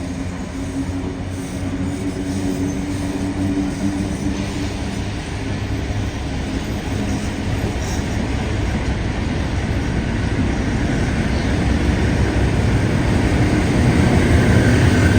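A train running, a steady heavy rumble that grows steadily louder.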